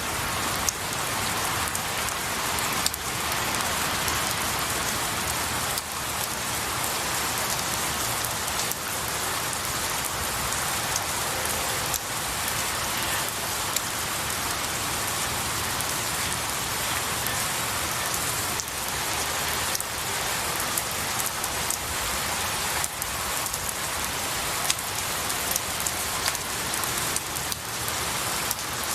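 Steady rain falling on pine needles and trees, with scattered individual drops ticking now and then.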